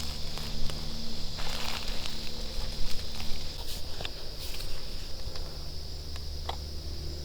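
Quiet footsteps and rustling in brush, with scattered clicks, over the steady whirring hum of a Feiyu G6 gimbal stabilizer's motors and a constant high-pitched hiss.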